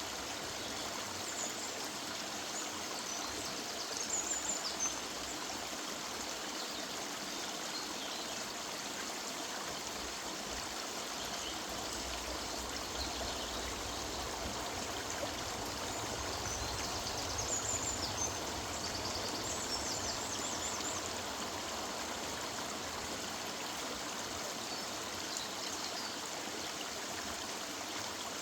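River water running steadily, with small birds chirping high above it now and then, most around four seconds in and again from about seventeen to twenty seconds.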